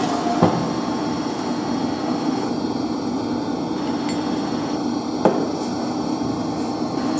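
Two sharp hammer blows on metal, about five seconds apart, over a steady machinery hum.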